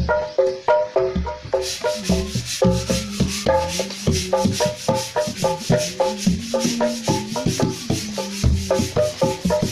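Kendang-style percussion music: rapid hand-drum strokes with a low drum note that bends up and down in pitch, over a repeating pattern of short pitched notes. A fast shaker-like rasp joins about a second and a half in and keeps on.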